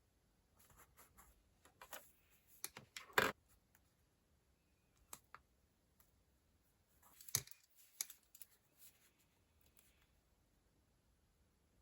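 Quiet handling of a paper planner and stationery: scattered light taps, clicks and rustles, the loudest about three seconds in and again about seven seconds in.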